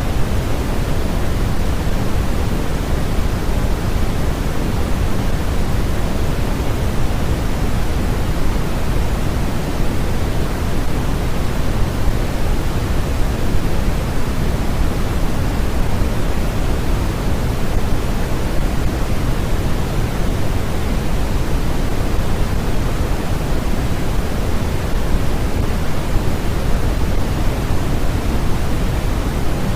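Steady generated noise for sleep, an unchanging even hiss that carries more weight in the low end than in the highs, like pink noise.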